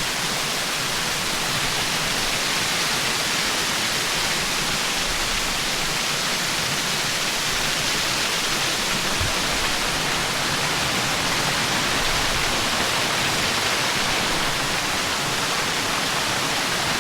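Rushing water of a rainforest river and waterfall: a steady, unbroken rush.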